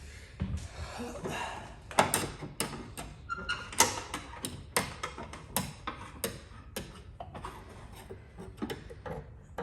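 An irregular series of sharp taps and clicks, about one or two a second, some with a short ring.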